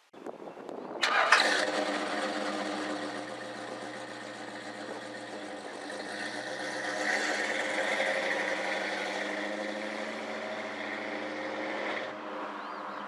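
A car engine is cranked for about a second, catches with a sharp burst, and runs steadily, swelling a little midway, then cuts off abruptly near the end.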